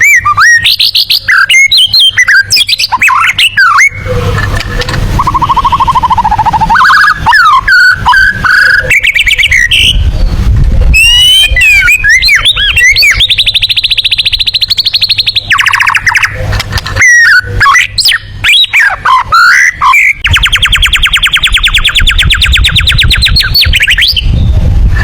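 White-rumped shama (murai batu) singing a loud, varied song of 'tembakan' phrases: quick whistled notes and sweeps, a lower rapid trill, and two long, very fast high-pitched trills, the second lasting several seconds near the end.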